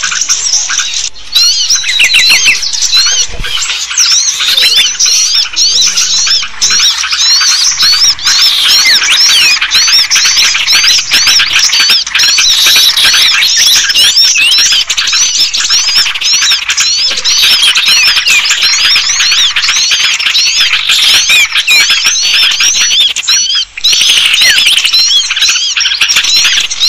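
Dense, continuous chorus of many small birds chirping and twittering, high-pitched calls overlapping fast with no break: a bird-lure (pikat) recording for small birds, used to draw them to birdlime.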